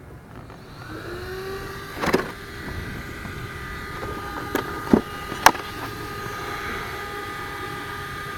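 Electric motor whine from a 1/8-scale RC truck with a Castle Mamba X brushless system, rising about a second in and then holding a steady high pitch. Several sharp knocks or clicks punctuate it, the loudest about five and a half seconds in.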